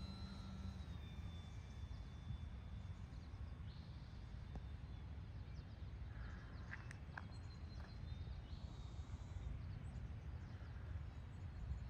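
Faint outdoor ambience with a steady low rumble of wind on the microphone. A distant RC plane's motor whines faintly, dipping slightly in pitch in the first second or so, and a few short bird-like chirps come about six to seven seconds in.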